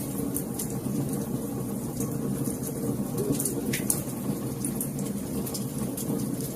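Wood fire crackling: sharp, irregular pops and snaps, several a second at times, over a steady low rumble of the burning fire.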